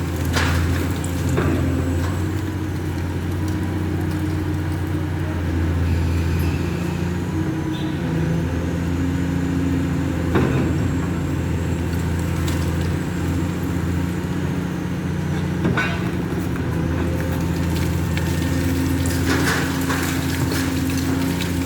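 Engine of a large demolition machine running steadily under load, with a few sharp cracks and crunches of material breaking scattered through it.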